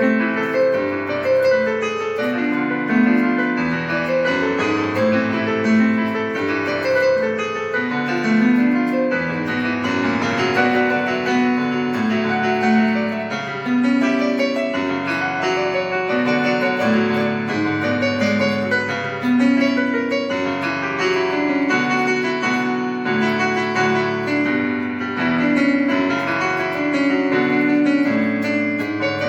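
Instrumental keyboard music with a piano sound: a melody over chords, without singing.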